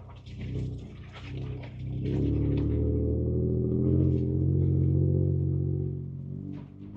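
Ford Ranger Raptor's twin-turbo V6 heard from inside the cab, pulling under throttle: the engine note swells about two seconds in, holds steady, then eases off near the end. A few light knocks come in the first two seconds.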